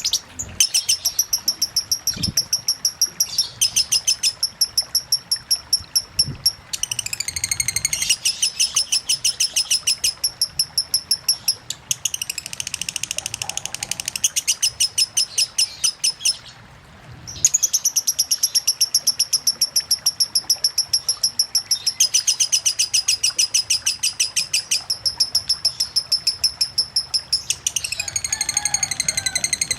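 Lovebird singing a long, fast run of rapid repeated high chirps (the 'ngetik'/'ngekek' song), pausing briefly about two-thirds of the way through, over faint running water.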